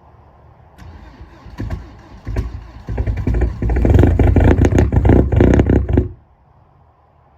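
Straight-piped VW Jetta 1.9 ALH TDI diesel cold starting in deep frost without a block heater. It cranks and fires raggedly from about a second in, catches and runs loud with diesel clatter, then the sound cuts off suddenly about six seconds in.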